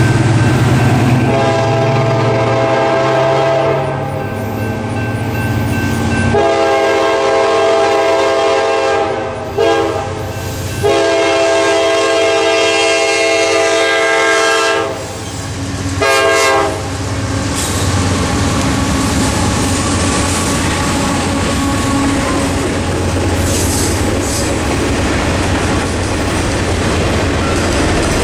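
A CSX freight train's lead GE AC44CW locomotive sounds its horn for the crossing in a series of long and short blasts, loudest as the locomotives reach the crossing. After that the freight cars rumble and clatter over the crossing in a steady run, with the crossing's electronic bell ringing.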